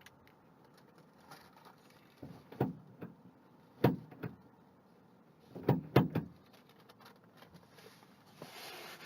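A few knocks and thumps, the loudest a close pair about six seconds in, followed near the end by a short rustling hiss.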